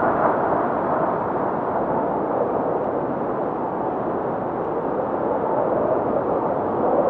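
Strong blizzard wind blowing in a steady rushing noise that eases slightly midway and swells again near the end.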